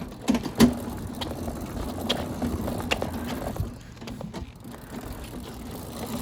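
A go-kart being pushed and maneuvered by hand with its engine off, giving scattered clicks and knocks, the loudest knock about half a second in, over a steady low hum.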